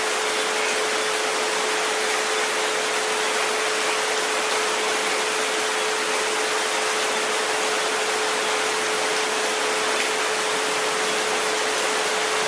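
Steady rain hiss with a continuous pure 432 Hz tone held underneath it and a fainter 528 Hz tone beside it, unchanging throughout.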